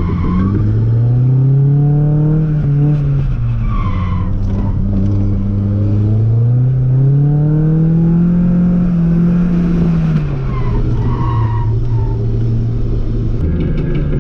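Drift car's engine revving hard, its pitch rising and falling in two long swells as the throttle is worked, with tyres skidding and squealing through a drift.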